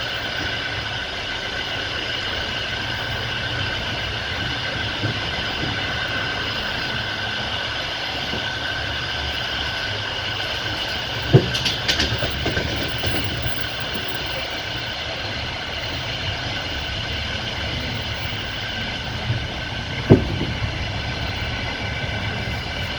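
Passenger train wheels rolling on the rails, heard from inside the carriage, a steady rumble with a faint high whine. Two sharp knocks from the wheels or the track, about 11 and 20 seconds in.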